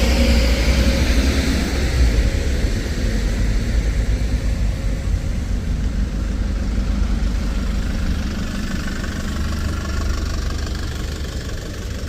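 A bus engine running with a steady deep rumble, a falling whine in the first couple of seconds and a faint rising whine near the end.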